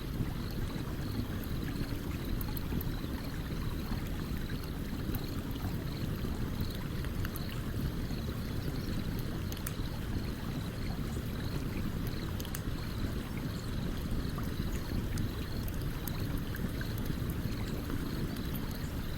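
A stream running steadily, with a campfire crackling over it in scattered sharp pops. A faint high chirp repeats evenly throughout.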